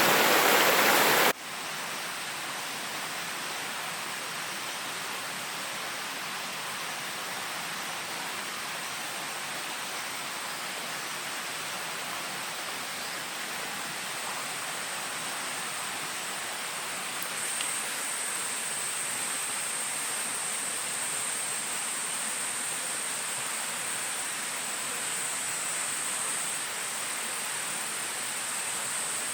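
Rushing water heard as an even hiss, loud for about the first second and then cutting abruptly to a quieter level. A thin, high, steady whine runs over it and grows stronger about halfway through.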